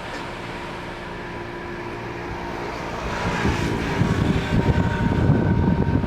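Ship's engine running with a steady drone, joined about halfway through by louder, irregular wind buffeting on the microphone that builds toward the end.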